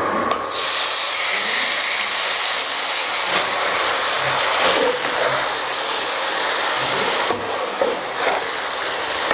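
Marinated chicken pieces sizzling in hot butter and oil in a frying pan. The steady hiss starts about half a second in, as the meat hits the fat, and holds evenly.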